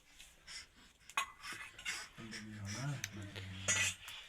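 Metal utensils and dishes clinking, with a few sharp clinks, and a voice murmuring briefly in the middle.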